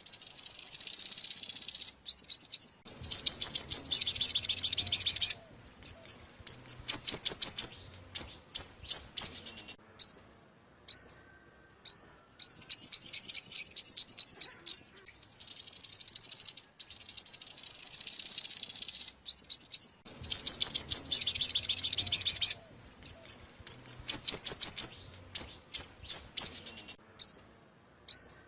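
Sunbird song: high, rapid trills lasting a couple of seconds at a time, alternating with strings of separate sharp chirps and short pauses. The same sequence of phrases comes round twice, as in a looped lure recording.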